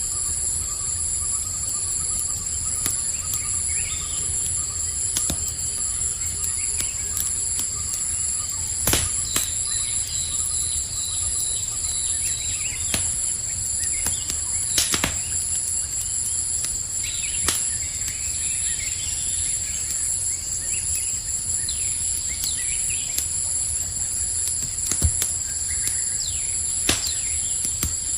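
Campfire crackling, with scattered sharp pops of which a handful stand out as louder, over a steady high-pitched chorus of night insects such as crickets.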